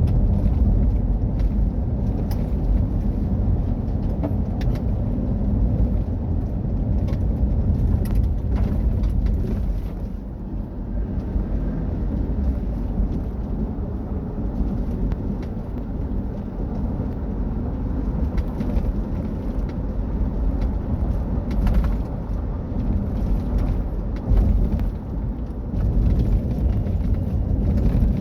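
Mitsubishi Triton rally car driven off-road: a dense, steady rumble of engine and rough-surface noise, with scattered sharp knocks and clicks. It eases briefly about ten seconds in and again a few seconds before the end.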